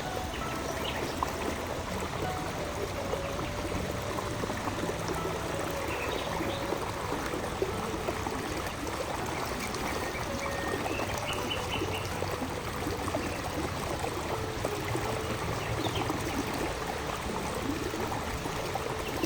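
A small woodland stream babbling and trickling steadily over rocks.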